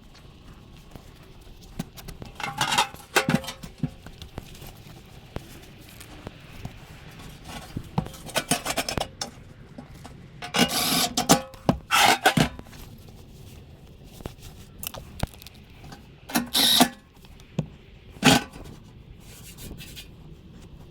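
Scraping and rubbing strokes of hand cleaning work on furnace parts, in several short bouts with pauses between.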